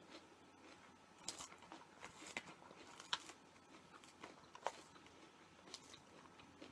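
A person chewing food close to the microphone: soft, irregular mouth clicks and crunches, about a dozen in all.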